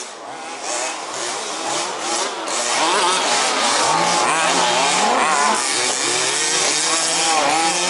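Several 1/5-scale two-stroke petrol RC buggy engines racing, revving up and easing off with overlapping rising and falling pitch, getting louder about two and a half seconds in and staying loud.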